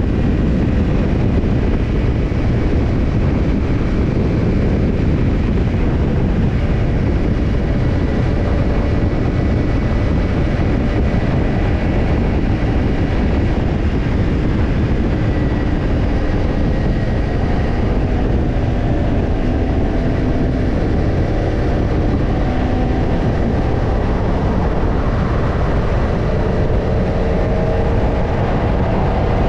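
Kawasaki Ninja 250 parallel-twin engine running through a BEET NASSERT Evolution Type II black titanium slip-on muffler while riding, under a steady heavy rush of wind noise. The engine note climbs gently near the end as the bike speeds up.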